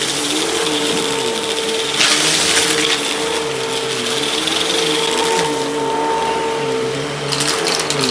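Hoover vacuum cleaner running at a steady motor pitch while picking up crushed crunchy debris and sand, with bursts of crackling and rattling as the debris goes up the hose about two seconds in and again near the end.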